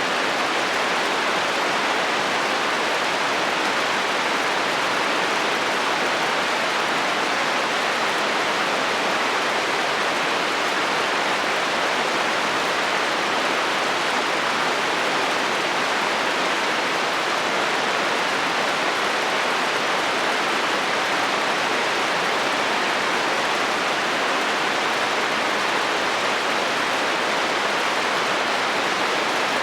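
Steady heavy rain drumming on a metal roof, an even hiss that holds without change.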